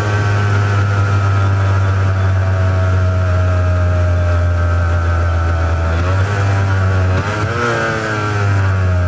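Honda NS400R's two-stroke V3 engine running on its original mufflers, with a ring-ding tone. About seven seconds in the revs drop and then climb quickly again.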